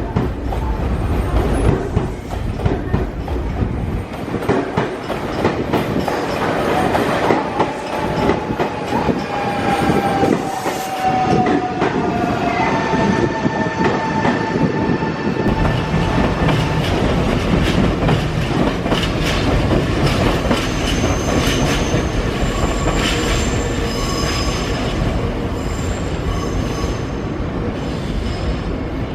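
Nankai electric train running along a station platform: continuous rumble of wheels on rail with clickety-clack over the joints. Thin tones glide through it, one falling slowly midway, and high wheel squeal rises in the second half.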